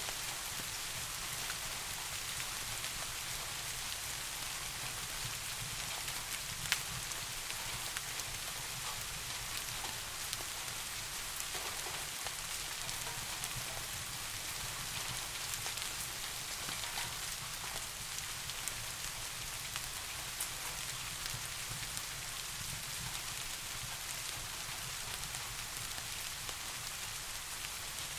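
Steady rain falling, with scattered drop ticks and one sharper tick about a quarter of the way through, over a steady low rumble.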